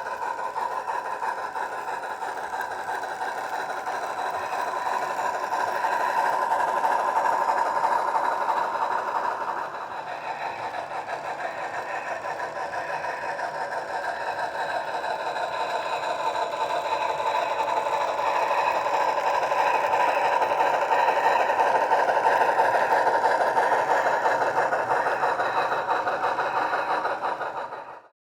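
Model steam locomotive running, its Soundtraxx sound decoder playing a rapid steam exhaust through a small onboard speaker. It grows louder twice, drops back about ten seconds in, then fades out and stops just before the end.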